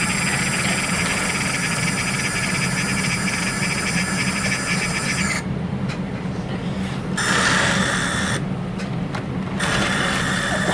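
Model train locomotive running on the layout: its small electric motor whining and its wheels rolling on the rails over a steady low hum. The whine cuts out twice for a second or so as the engine stalls on dirty track.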